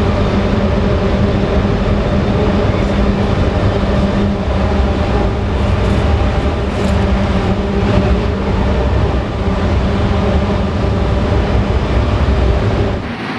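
Ferry's diesel engines running: a loud, steady rumble with a constant low hum, cutting off suddenly near the end.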